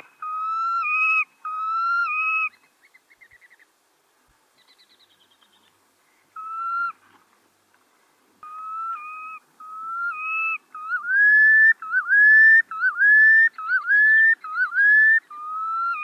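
A bird's clear whistled calls: notes of about a second each, holding pitch and lifting at the end, with pauses and faint quick trills between. Near the end the notes climb higher, swoop, come closer together and grow loudest.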